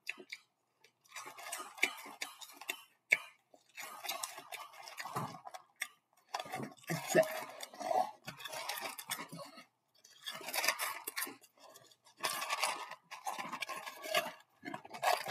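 Close-up chewing of crunchy breakfast cereal: crackly crunching in bursts of a second or two, separated by brief pauses.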